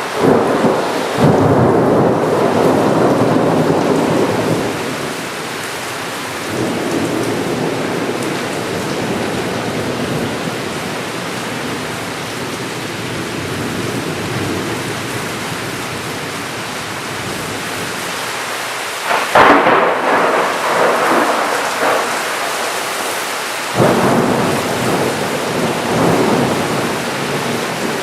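Steady heavy rain with thunder: a long rumble of thunder in the first few seconds, a sharp close crack about two-thirds of the way in, and another sudden rumble shortly after.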